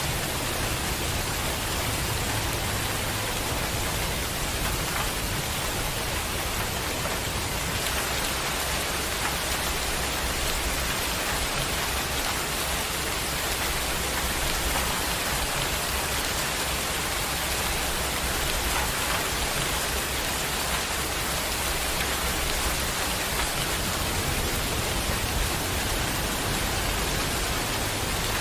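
Heavy rain falling steadily, a constant dense hiss of rain on surfaces.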